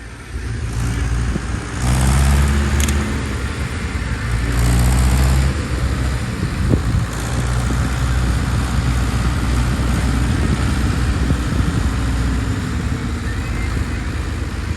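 An engine running steadily, with two louder stretches of a second or so, about two and about five seconds in.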